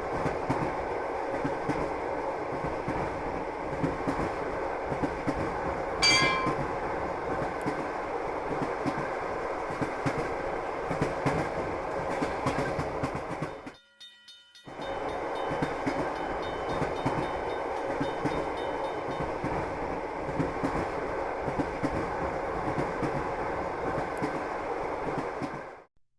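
A train running along the track: a steady running noise that drops out for under a second about halfway through, with a short high-pitched tone about six seconds in.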